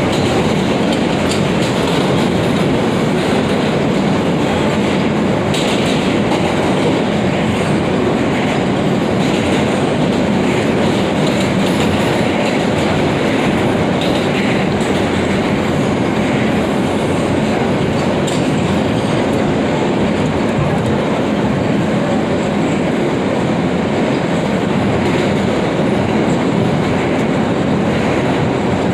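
New York City subway F train running between stations: a steady rumble of wheels on rail, with a few faint clicks now and then.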